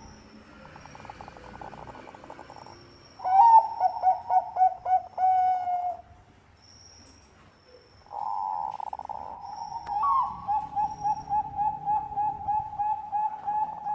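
Zebra dove of the Bangkok perkutut line singing its rolling coo song. There are two bouts: a short run of quick notes, a pause of about two seconds, then a longer run of about a dozen evenly spaced coo notes at roughly three a second.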